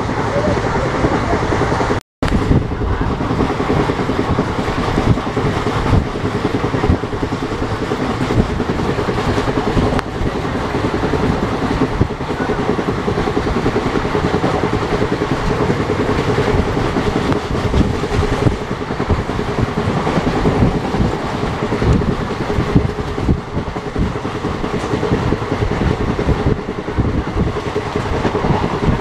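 Express passenger train running on the rails, heard from on board: a steady rumble with a faint held hum and frequent wheel knocks over rail joints. The sound cuts out for an instant about two seconds in.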